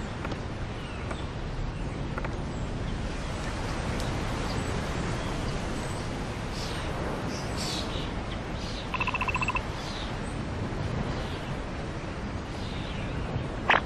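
Outdoor ambience: a steady background hiss with scattered bird chirps. About nine seconds in, a brief, rapidly pulsed buzzing trill, and a short sharp chirp right at the end.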